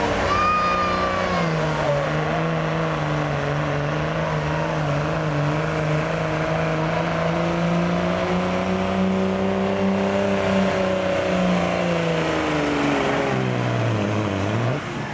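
Diesel truck engine held at high revs under heavy load while pulling the sled. The pitch rises slowly and holds, then drops sharply near the end as the throttle comes off and picks up again.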